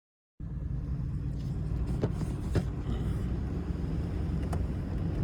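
Car driving, a steady low road and engine rumble heard from inside the cabin, with a few brief sharp ticks.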